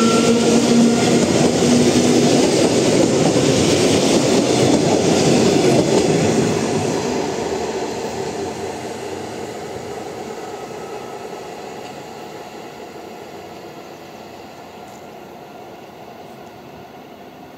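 ET2M electric multiple unit passing close at speed: loud rolling noise of the wheels on the rails, with a steady hum for the first couple of seconds. After about six seconds it fades steadily as the train draws away.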